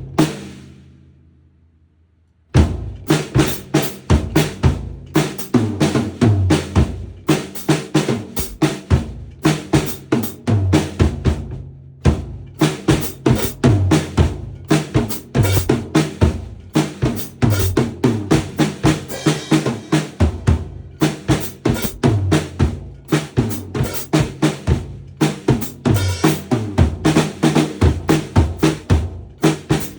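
A drum kit being played by a beginner. One hit rings out and dies away over the first couple of seconds, then steady, busy drumming starts and keeps going, with short breaks about twelve and twenty-one seconds in.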